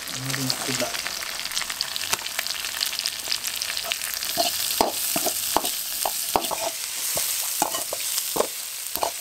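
Chopped onion, green chillies and dried red chillies sizzling as they fry in hot oil in an aluminium kadai. A perforated metal ladle stirs them, scraping and knocking against the pan again and again from about four seconds in.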